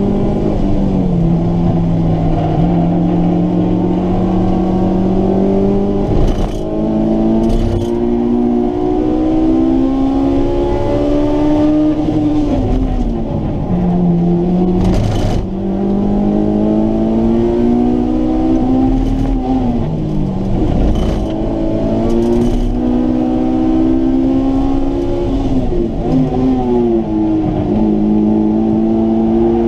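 Honda S2000's four-cylinder engine heard from inside the cabin on a track lap, its pitch climbing steadily under acceleration and dropping sharply three times as the car brakes and downshifts before climbing again. A few brief sharp knocks come about six and eight seconds in and again about halfway.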